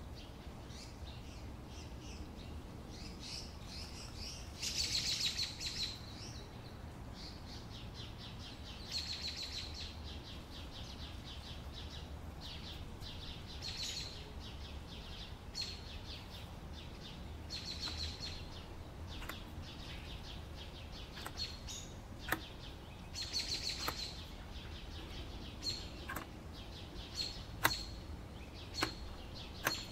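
Small birds chirping: short high trills and single chirps that come back every few seconds. A few sharp clicks come near the end.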